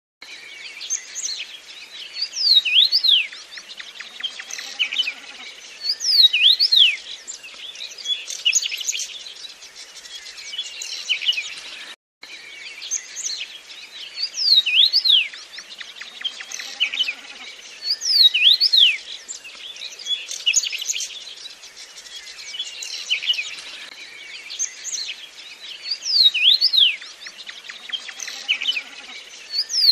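Songbirds singing: a busy run of chirps and quick sweeping whistles. There is a brief break about twelve seconds in, after which the same stretch of song repeats.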